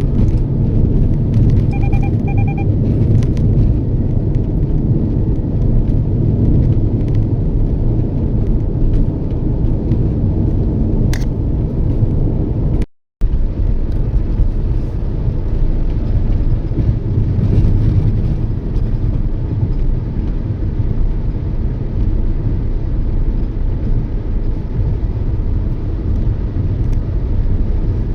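Toyota Yaris being driven: a steady low rumble of road and engine noise. About two seconds in come three short electronic beeps, and about halfway through the audio cuts out for a moment.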